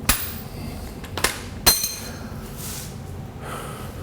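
Hammer striking steel suspension hardware three times. The last two strikes come close together, and the last is the loudest and rings.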